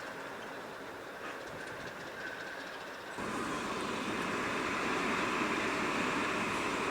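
A train running along the track with steady running noise; about three seconds in the sound jumps abruptly louder and fuller.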